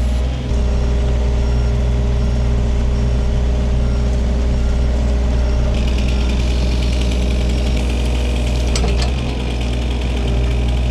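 Takeuchi TB230 mini excavator's diesel engine running steadily while the machine handles a log; a higher hiss joins about six seconds in.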